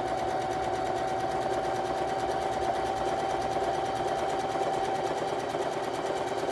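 Electric sewing machine stitching a seam, its motor running at a steady speed with an even whine.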